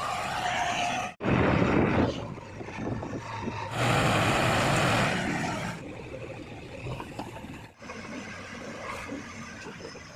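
Heavy diesel machinery running, with two louder stretches, one a little after a second in and a longer one around the middle. The sound is broken by abrupt cuts a little over a second in and near the end.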